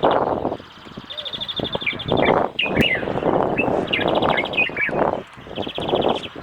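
Small birds chirping, with several quick high trills and short chirps that slide up and down in pitch, over repeated louder bursts of rustling and scraping noise.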